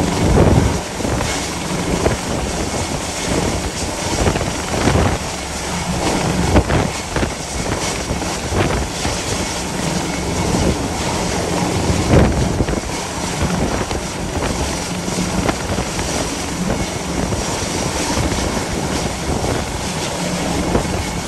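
Gale-force wind buffeting the microphone in gusts over a steady low drone from a hovering helicopter's rotor and engine.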